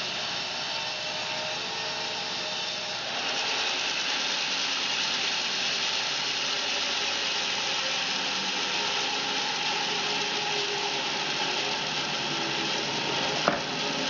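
Home-built bandsaw mill sawing a fir log, a steady mechanical whir that grows louder and brighter about three seconds in, with a sharp click near the end.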